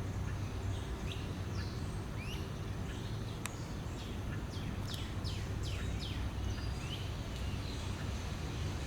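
Small birds chirping over and over, each call a quick downward sweep, over a steady low rumble.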